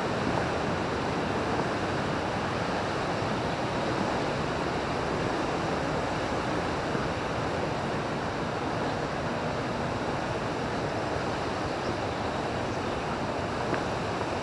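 Waterfall at Coo rushing steadily, a dense, even noise of falling water.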